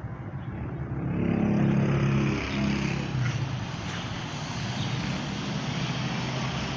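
An engine running steadily, growing louder about a second in and easing off again a couple of seconds later.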